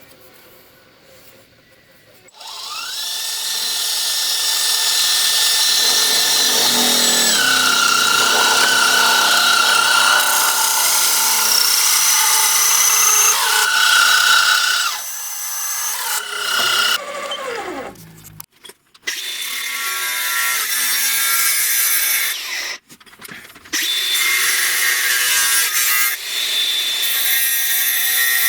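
An electric power tool starts about two seconds in. Its motor whine rises as it spins up, then it runs steadily and the pitch drops as it takes load. It cuts out briefly after about eighteen seconds, starts again, and has another short dip a few seconds later.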